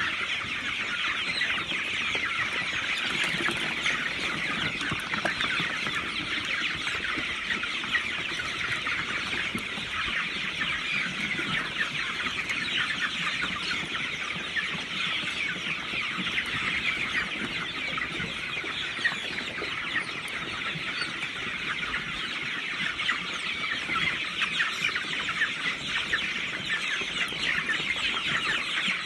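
A large flock of chickens in a poultry house, clucking and chirping continuously as a dense, many-voiced chatter.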